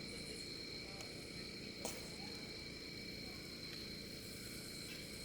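Crickets trilling steadily at two high pitches, with a single short click about two seconds in.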